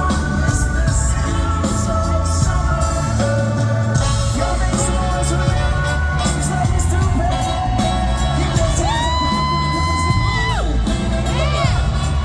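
Reggae band playing live with vocals over a steady bass and drum groove. About nine seconds in, a long high note is held for over a second and then falls away.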